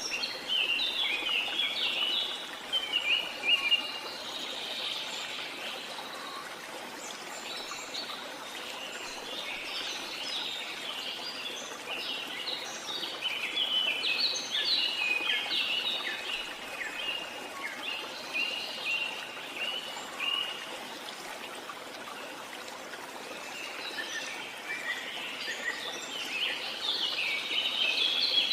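Steady rushing water of a jungle waterfall, with birds chirping over it in bouts that come and go.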